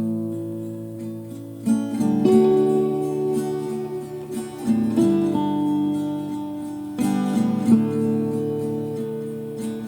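Instrumental music: acoustic guitar strumming chords, with a new chord struck every second or two and left to ring between strikes.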